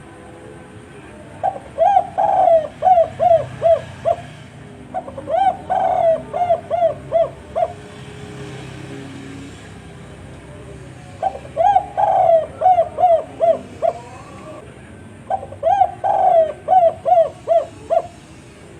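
Spotted dove cooing: four phrases, each a quick run of repeated coos, coming as two pairs with a pause of a few seconds between them.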